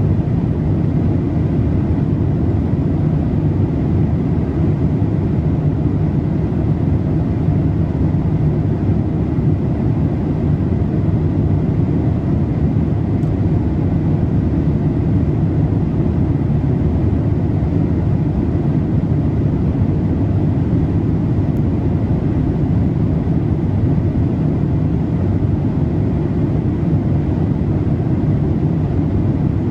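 Steady low rumble of cabin noise inside a Boeing 787-8 in flight: engine and airflow noise, even and unchanging.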